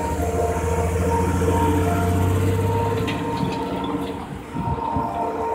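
Amtrak Heartland Flyer passenger train passing close by at a grade crossing: a low diesel-locomotive rumble, strongest for the first three to four seconds, then easing into the rattle of the passing train. Steady ringing tones, likely the crossing signal bells, sound throughout.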